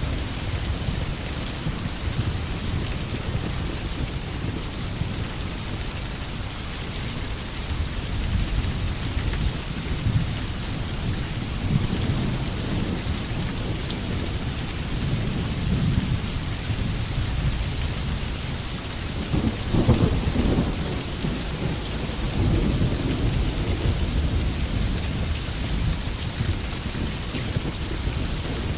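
Steady rain falling through forest trees, with low rolling thunder rumbling underneath that swells and fades, loudest about two-thirds of the way in.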